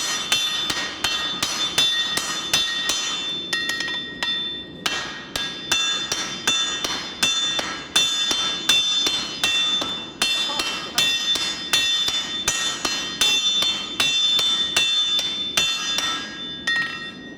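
Hand-forging blows on hot steel over an anvil: a fast run of metal-on-metal strikes, about two to three a second, each followed by high steel ringing, with a brief pause about four seconds in.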